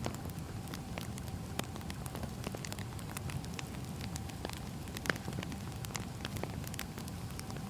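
Burning firewood: a steady low rumble with irregular sharp crackles and pops, the loudest pop about five seconds in.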